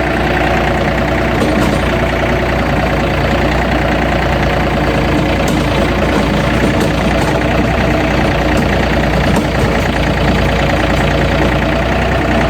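John Deere tractor engine running steadily while the tractor pulls a PTO-driven rotary tiller through the dirt.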